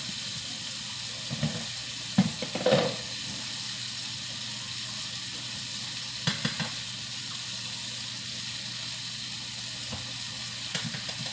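Steak and vegetables frying in hot pans: a steady sizzle, with a few short knocks of a utensil against the pans about two seconds in and again around six seconds.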